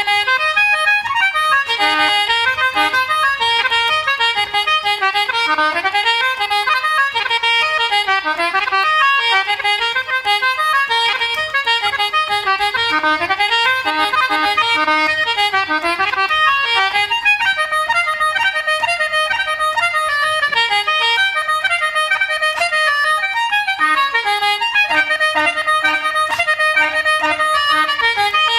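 Irish traditional reels played at a brisk pace on free-reed instruments, concertina and button accordion, in fast runs of notes.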